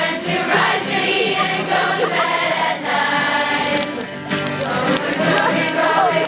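A group of people singing together in chorus, many voices at once without a break.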